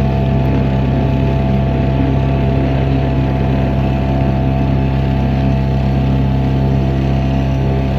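Motorboat engine running steadily at constant speed, its pitch unchanging, with water and hull noise underneath.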